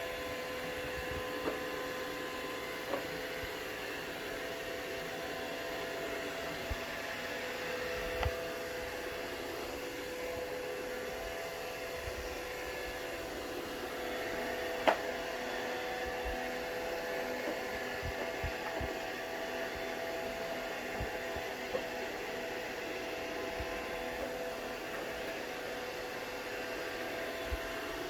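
Roomba robot vacuum running, a steady whirring hum broken by a few short sharp knocks, the loudest about halfway through, as it keeps trying and failing to dock.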